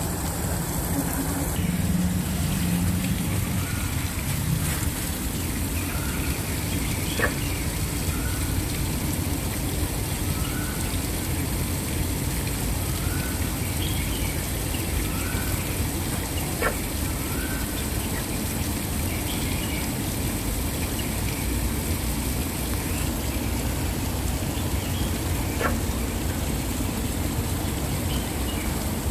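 Waterfall rushing steadily. Over it a bird gives a short note again and again, about once every second and a half, for the first half, and there are a few sharp clicks.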